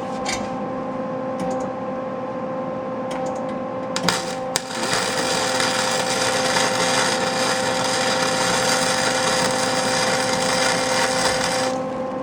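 MIG (wire-feed) welder arc crackling steadily for about seven seconds as a bead is run on an exhaust pipe. It starts about four and a half seconds in, after a couple of short clicks, and stops shortly before the end. A steady hum runs underneath throughout.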